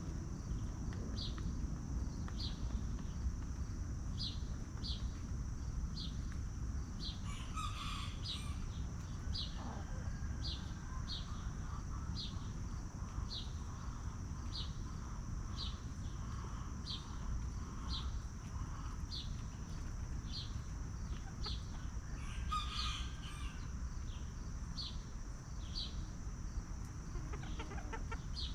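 Free-range chickens clucking and calling, with two louder calls about a third of the way in and again near the end. Behind them, a steady high whine and a short high chirp repeating a little faster than once a second.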